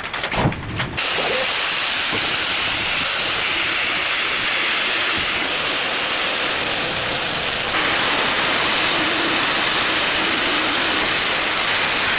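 A few knocks, then about a second in a loud, steady hiss starts abruptly and holds at an even level. A faint high whine sits on it for a couple of seconds midway.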